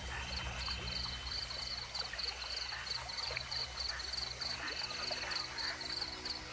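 Nocturnal rainforest chorus: a high, regular chirp repeating about three times a second over a low steady rumble.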